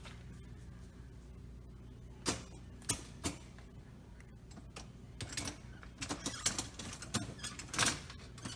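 Plastic parts of a dishwasher's spray arm assembly being handled and snapped together by hand: three sharp clicks a couple of seconds in, then a busier run of lighter clicks and knocks.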